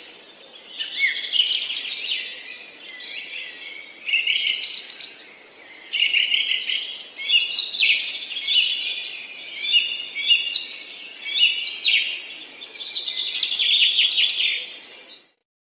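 Songbirds singing: a run of quick, high chirping phrases with short pauses between them. The sound cuts off suddenly near the end.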